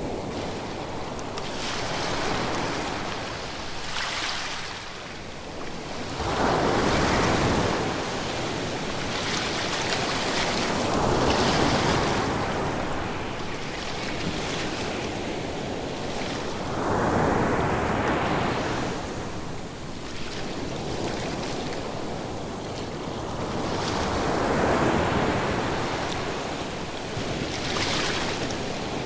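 Ocean waves breaking and washing on shore, the surf swelling and falling back in a slow rhythm, a wave about every five seconds.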